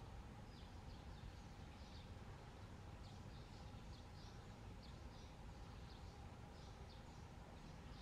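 Faint, short, high-pitched bird chirps repeated irregularly over a low, steady background rumble.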